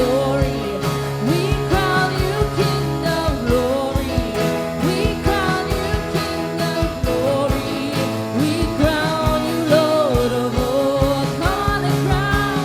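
Live worship band playing: a singing voice over sustained chords and a steady drum beat.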